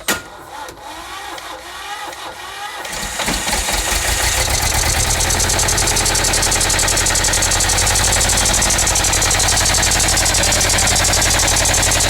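Sabb 2G two-cylinder diesel marine engine being turned over and catching about three seconds in. It then settles into a steady, evenly pulsing run after standing unused for a while.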